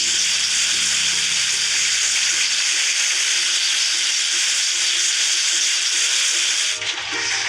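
Water spraying in a steady hiss over a toy truck being washed. The spray breaks off briefly about seven seconds in, with faint background music underneath.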